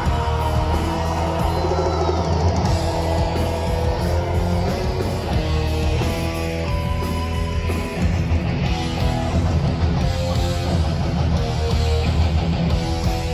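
Live thrash metal band playing: distorted electric guitar riffs over bass and drums, continuous and loud.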